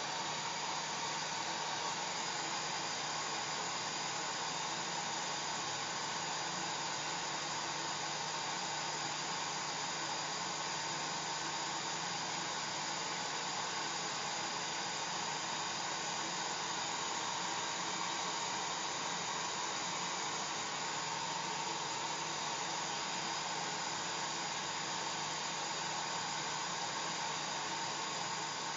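Hair dryer running steadily: an even blowing hiss with a faint steady hum under it.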